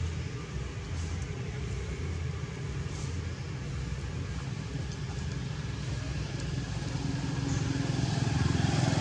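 A motor running steadily, getting louder over the last couple of seconds.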